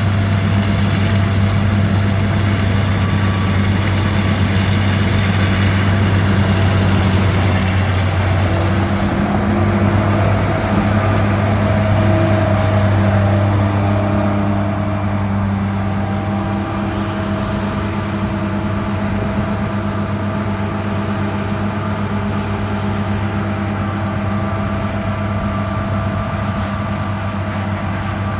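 John Deere combine harvester running: a steady, loud low engine drone with a constant hum. It gets slightly quieter about halfway through.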